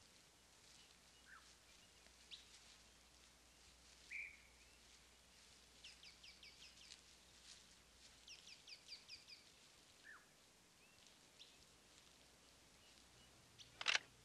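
Faint birdsong over quiet outdoor ambience: scattered chirps and two short runs of quick, rapidly repeated notes. A single sharp click comes near the end.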